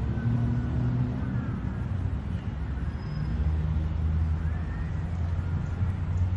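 A motor vehicle engine running steadily with a low hum, with a few faint short gliding calls above it.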